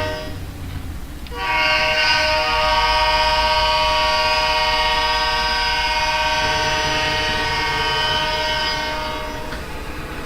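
Diesel locomotive air horn sounding a chord of several notes in one long blast of about eight seconds, starting about a second in, over a low engine rumble.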